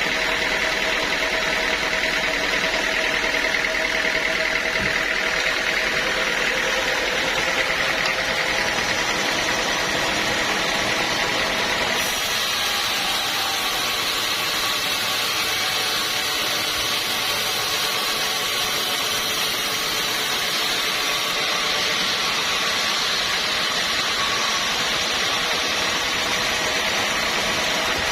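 Sawmill running steadily while sawing a teak log. The sound shifts to a higher, brighter hiss about twelve seconds in.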